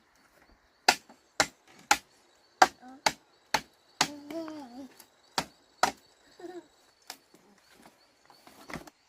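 A blade chopping wood by hand: about a dozen sharp strikes at roughly two a second, spacing out near the end.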